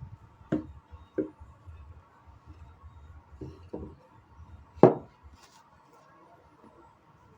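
A handful of separate knocks and clunks, as of objects set down or handled on a work surface, the loudest about five seconds in.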